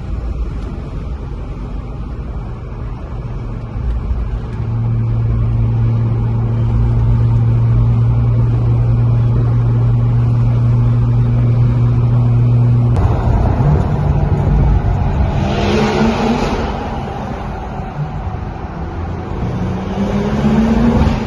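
Car engine and exhaust droning at a steady pitch, then revving up under acceleration, with the pitch rising twice.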